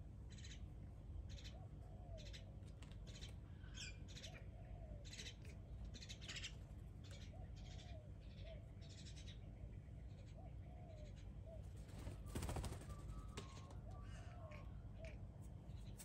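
Faint outdoor birds calling: a repeated short, low, curved call comes every second or so, with short high chirps from other birds among them. About twelve seconds in, a brief louder rush of noise is the loudest sound.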